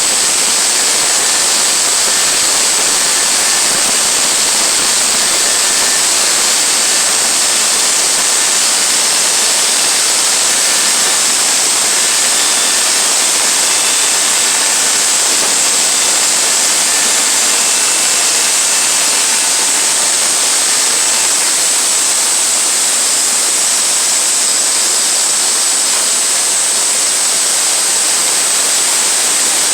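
Bandsaw sawmill running through a cut in a pine log: a steady loud hiss with a high whine.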